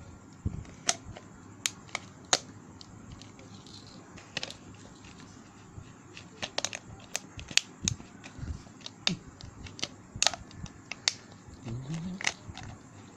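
Irregular clicks and taps of parts being handled as the nozzle is pushed onto a homemade battery-powered mini vacuum cleaner.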